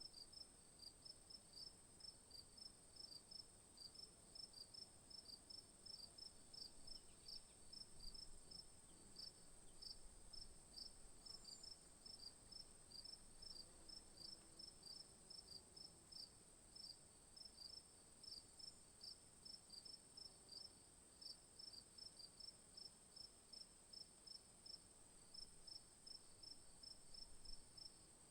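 Faint insect chorus: a steady high-pitched drone with regular short high chirps, about two to three a second.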